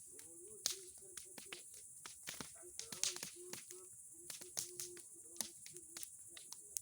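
Bonfire of old boards and pine cones crackling, with sharp irregular snaps and pops several times a second.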